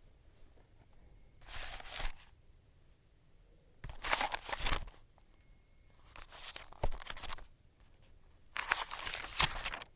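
Packaging being torn and crinkled in four separate bursts, each about a second long.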